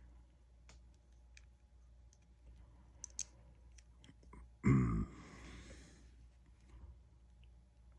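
Small plastic clicks and taps as the action figure's parts are handled. About two-thirds of the way in comes a short, low, loud voiced grunt, then a breathy exhale lasting about a second.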